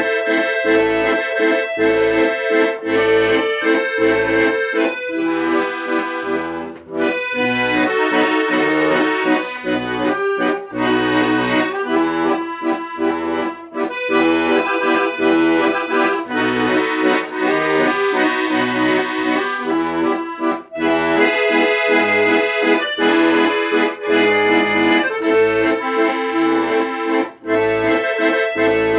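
Accordion playing an instrumental chanson tune over a steady bass beat, without vocals.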